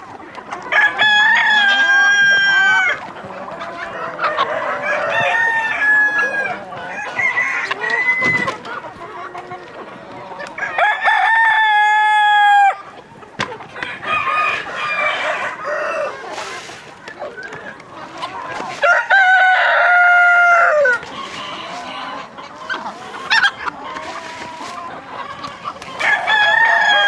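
Roosters crowing again and again, about four long loud crows each lasting around two seconds, with hens clucking and chattering between the crows.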